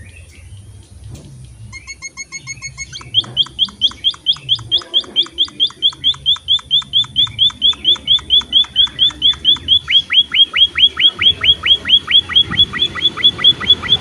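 Emprit finches calling. A short run of evenly spaced piping notes about two seconds in is followed by a fast, steady series of sharp chirps at about five a second, and a second bird joins the chirping about ten seconds in.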